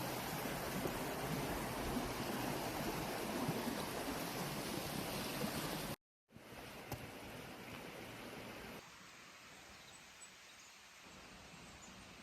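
Steady rushing of flowing water for about six seconds. It cuts off abruptly, giving way to a much quieter outdoor ambience with a single faint click.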